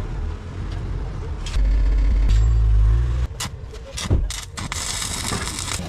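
Car engine running with a deep exhaust rumble that swells to a loud, low blast about a second and a half in, lasting around a second and a half, followed by a few sharp knocks.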